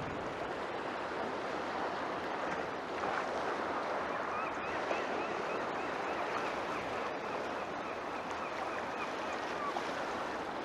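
Sea waves breaking and washing on the shore: a steady rush of surf, with a run of faint high chirps through the middle.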